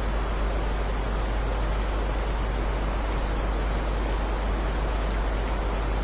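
Heavy rain falling steadily: a dense, even hiss with no single drops standing out and a deep low rumble underneath.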